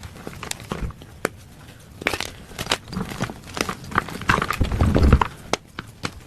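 Plain gym chalk being crushed: a run of small crunches and crackles, with a heavier, longer crunch about four to five seconds in.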